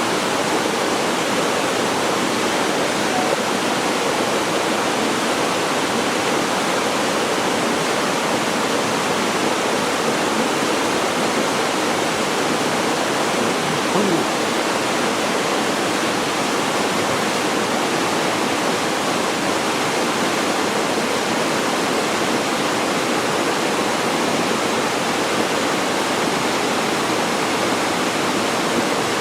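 Waterfall pouring steadily into its pool, a constant rushing of falling water with no break.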